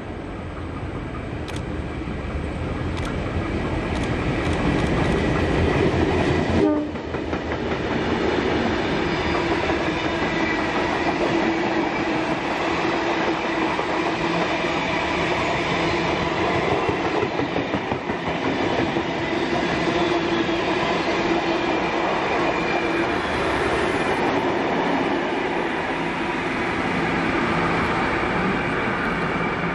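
Sydney Trains electric passenger train running on the rails, growing louder over the first six seconds. The sound changes suddenly about seven seconds in, and after that it runs on steadily with a held whine.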